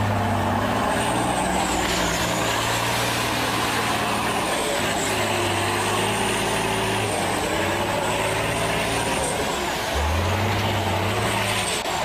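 Large off-road diesel truck engine working under load, its deep note stepping up and down, with a thin high whine over it throughout.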